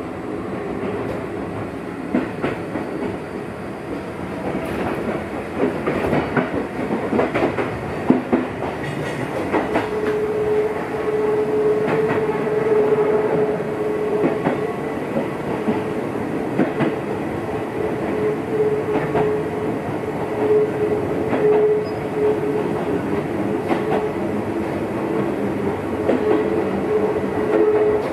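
Gakunan Railway electric train running between stations, heard from inside the car: a steady rumble with wheels clicking over rail joints. A steady whine comes in about ten seconds in and holds.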